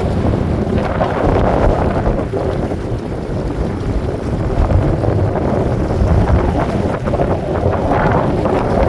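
Wind buffeting the microphone: a steady, rough low rumble that flutters in level.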